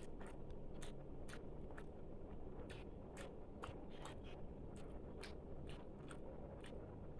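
A person chewing food close to the microphone, with irregular wet mouth clicks and smacks, two or three a second.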